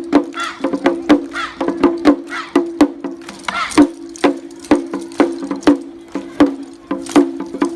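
Lion dance percussion: a drum beaten in a quick, uneven rhythm with sharp wooden clacks between the strokes, the drum's ring carrying on under the beats.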